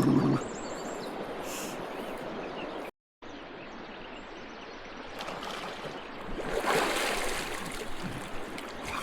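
River water flowing steadily. The sound cuts out briefly about three seconds in, and a louder swell of rushing noise comes around seven seconds.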